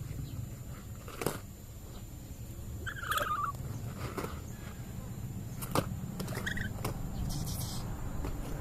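Pet lory (parrot) giving a short stuttering chatter a few seconds in and another brief call later, with two sharp clicks between, over a low steady hum.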